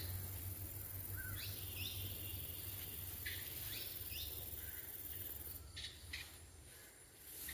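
Outdoor ambience: a bird calling in a run of short rising chirps over a steady low hum and a high hiss, which fade out about two-thirds of the way through, followed by a few short faint clicks.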